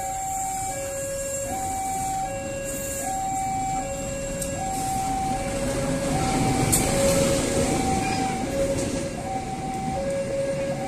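A two-tone warning alarm alternates evenly between a low and a high note, about one cycle a second. Under it runs the rumble of a diesel locomotive and its passenger coaches passing close by, loudest a little past the middle, with one sharp metallic click.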